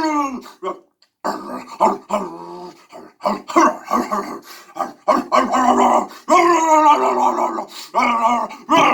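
A dog vocalizing in a string of drawn-out growling, howl-like calls, one after another with short gaps, the bending pitch sounding like 'Har-ley'.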